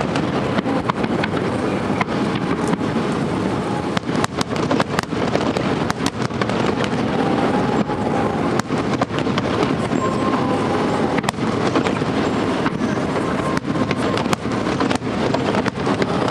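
Fireworks display with a dense, unbroken barrage of bursts and crackling, loud throughout.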